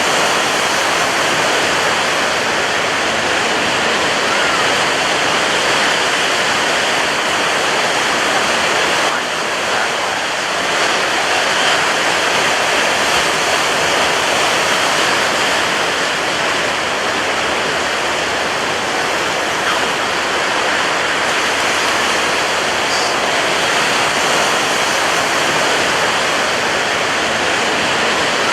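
Ocean surf breaking on a beach: a steady, continuous wash of rushing noise with no separate crashes standing out, easing slightly for a moment about nine seconds in.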